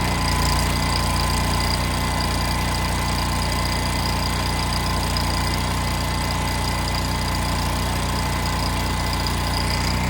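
Engine of an engine-driven welder running steadily at an even speed, a constant hum with no change in pitch.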